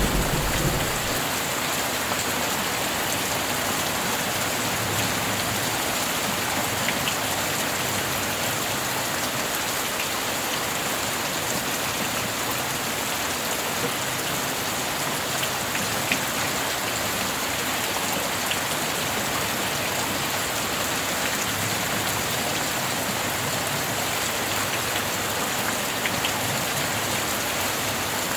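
Steady rain, an even hiss with scattered drip ticks. A low thunder rumble dies away in the first second.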